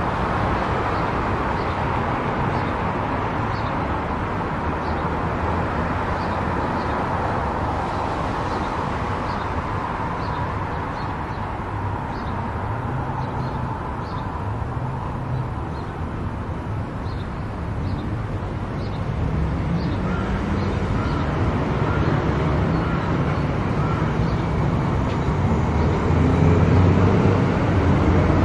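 Car driving at highway speed: a steady rush of tyre and road noise over a low engine hum. A faint, regular light ticking runs through much of it, and the noise grows louder near the end.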